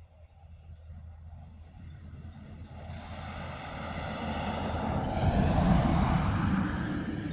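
A motor-driven craft passing close by: its sound swells steadily to a loud peak about three-quarters of the way through, then begins to fade.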